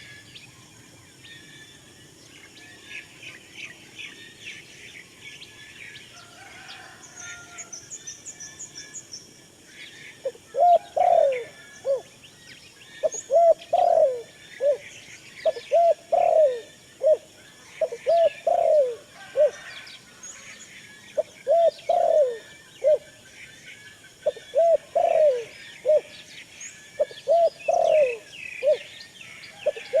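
Small birds chirping and twittering, high-pitched, throughout. From about ten seconds in, a dove coos in short repeated phrases every couple of seconds, louder than the chirping.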